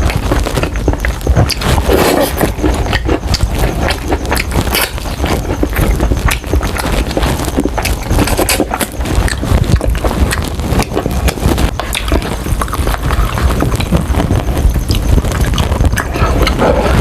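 Close-miked chewing and biting of crispy Jollibee fried chicken: a steady run of wet crunching, crackling and lip smacking.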